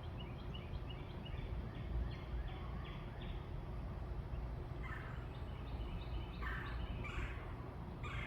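Backyard birds calling: a quick run of short repeated high notes, then several harsher, rougher calls in the second half, over a steady low rumble.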